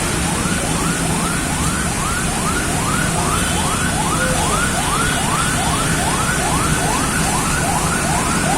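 An electronic siren in a fast yelp: quick rising sweeps repeating about three times a second, over a steady hiss of rain.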